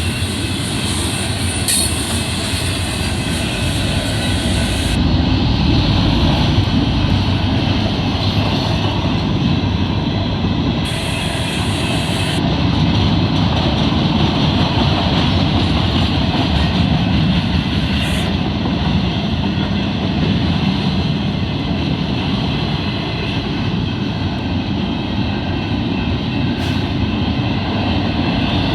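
Union Pacific intermodal freight train rolling past, a steady noise of wheels on rail from the passing cars.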